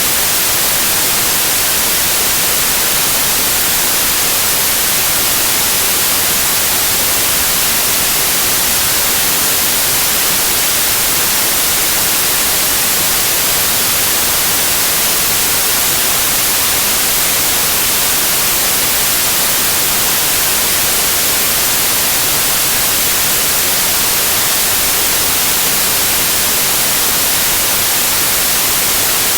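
Steady white-noise hiss of television static, even and unchanging throughout.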